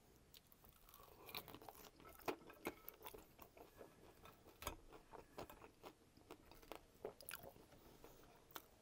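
Faint, close-miked chewing of French fries topped with Coney sauce: scattered soft crunches and wet mouth clicks. A metal fork picks at the plate.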